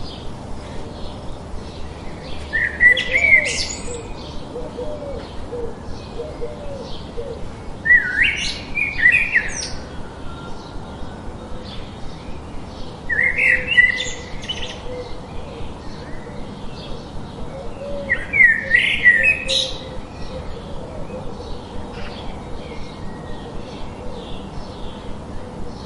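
Birds singing: one bird repeats a short song phrase four times, about every five seconds, over steady high chirping from other birds and a faint lower warble.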